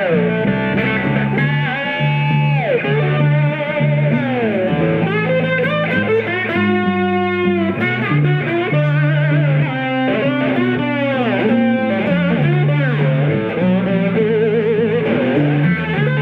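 Slow blues guitar solo on electric guitar, with bent notes sliding in pitch and a wavering vibrato near the end, over a walking bass line played on the low strings of a seven-string guitar.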